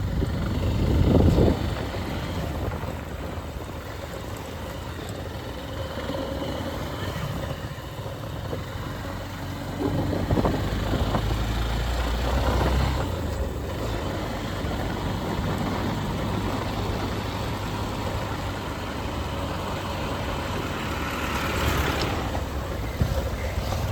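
Motorcycle engine running as the bike rides along, a steady low drone that swells a little about a second in and again around ten to thirteen seconds in.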